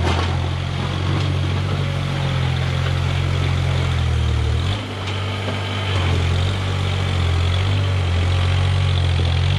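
Engine of a snow-clearing machine running steadily, with a brief dip and change in its note about halfway through.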